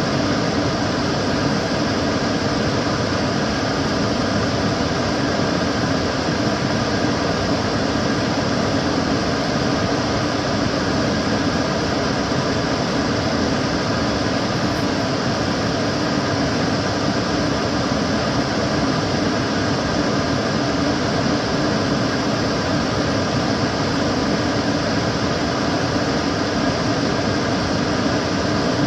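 Kitchen cooker hood fan running steadily: an even rush of air with a faint steady hum, unchanging throughout.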